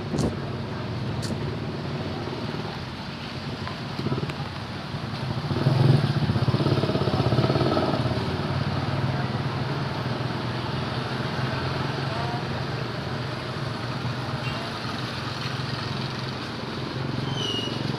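An engine running steadily with a low hum, growing louder about six seconds in and then easing back.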